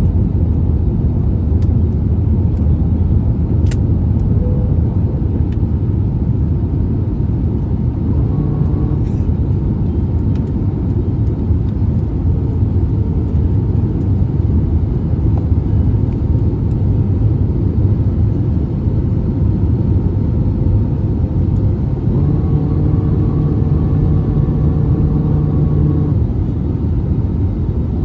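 Steady low rumble of engine and airflow noise inside the cabin of an Airbus A320neo with CFM LEAP-1A engines. A steady hum of several tones rises over it for a few seconds about three-quarters of the way through.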